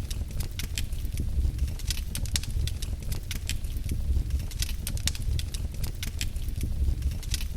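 Wood fire crackling in a fireplace: many sharp, irregular pops and snaps, several a second, over a steady low rumble.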